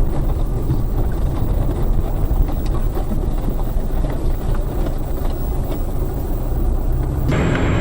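A car's running engine and road noise, heard as a steady low rumble through a dashcam's microphone. Near the end the sound changes abruptly to a different, similar rumble.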